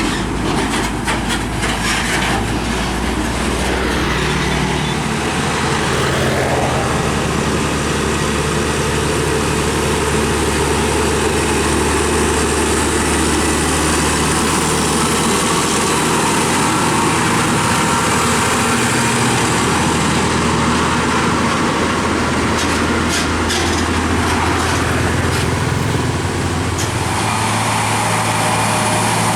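Heavy diesel trucks passing on a highway, their engines running loud and steady. The engine note changes about five seconds in and again near the end as one truck gives way to the next.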